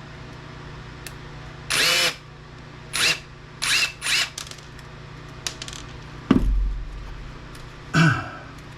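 Cordless drill-driver running in short bursts, backing out a steel screw, with a sharp knock and low thud a little after the middle.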